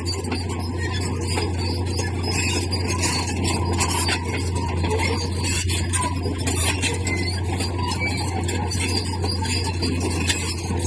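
Bulldozer running steadily with a low engine drone, its tracks and blade grinding through stone with continual metallic squealing and clinking.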